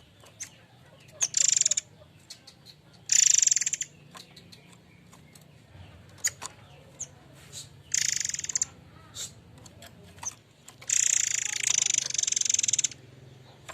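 Murai air mancur bird calling in four harsh, high, rasping bursts, each under a second except the last, which runs about two seconds near the end, with faint clicks in between.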